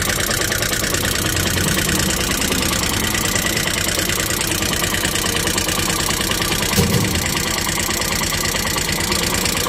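CNG auto-rickshaw's 225 cc engine idling steadily with a fast, even beat, running on a newly fitted carburetor.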